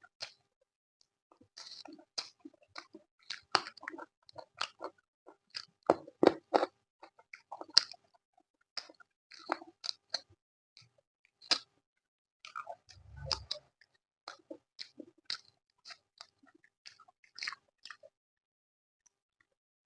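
A person chewing food close to the microphone: repeated wet mouth smacks and crunchy bites, with one dull low bump about two-thirds of the way through.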